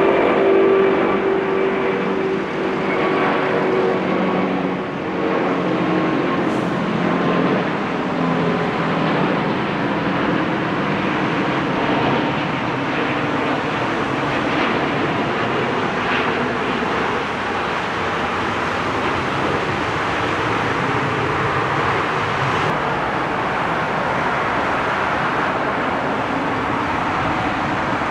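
Airbus A380 jet engines and rushing airflow during a landing. Several steady engine tones in the first few seconds fade out, leaving a loud, even rush.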